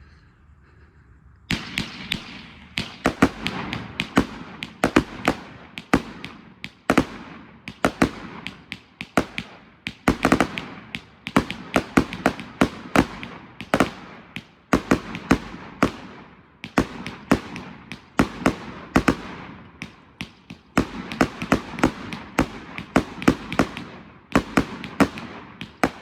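A 666-shot firework cake firing: a dense barrage of sharp bangs and cracks, several a second, coming in waves. It starts about a second and a half in.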